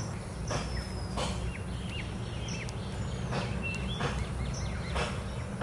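Birds calling outdoors: a whistled note that slides downward, repeated about four times, and several short chirps, over a steady low background rumble. A few short rustling sounds come in between.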